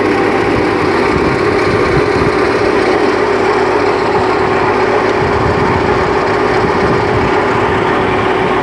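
Tractor engine running steadily under work, a loud constant drone with a steady whine-like tone over a rough rumble.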